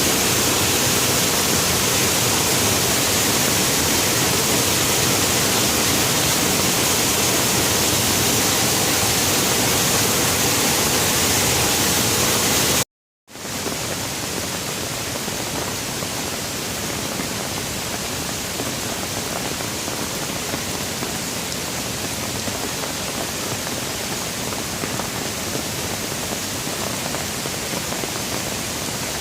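Steady heavy rain, an even hiss. About 13 seconds in it cuts out completely for a split second, then comes back slightly quieter.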